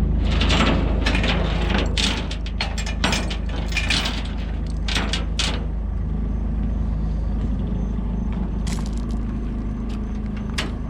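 A chain clinking and clanking as it is hooked up, over a truck engine idling steadily. The rattles come thick for the first six seconds, then only now and then.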